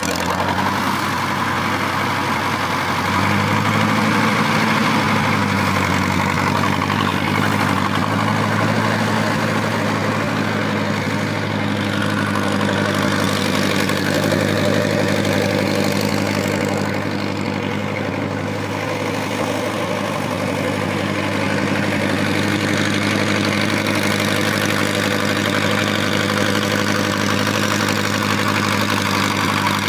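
Tractor engine running steadily at idle, picking up slightly in speed and loudness about three seconds in and then holding even.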